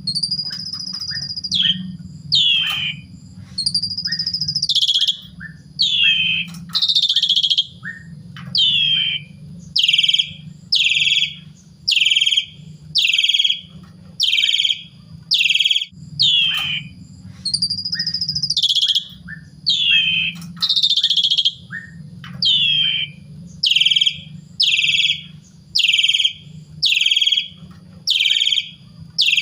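Asian pied starling (jalak suren) singing a long run of short, sharply falling calls about one a second, broken now and then by longer high whistles. A low steady hum runs underneath.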